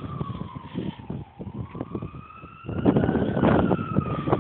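An emergency vehicle siren wailing, its pitch slowly rising and falling about once every three seconds. Under it, low rumbling wind noise on the phone's microphone grows louder about two-thirds of the way in.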